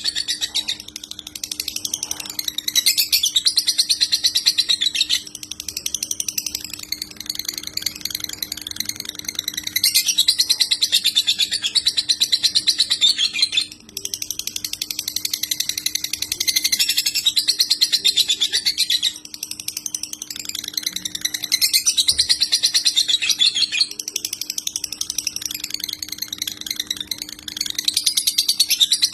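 Lovebird singing long, rapid chattering phrases in the continuous 'konslet' style, each lasting several seconds with brief breaks between them, over a faint steady hum.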